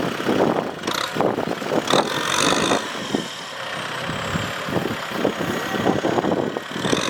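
Kubota tractor engine running under load, with uneven clattering and knocks.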